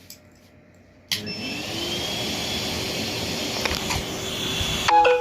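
Henry vacuum cleaner switched on about a second in, running off a 12 V power bank through an inverter: its motor spins up with a rising whine and then runs steadily. Near the end a brief, louder ringing tone cuts in over it.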